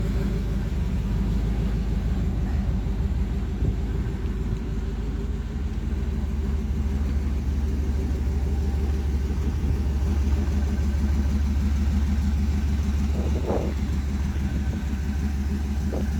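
Small-block 350 V8 Fastburn 385 crate engine idling steadily, its exhaust running through Hedman headers and short pipes with an even, rapid pulsing.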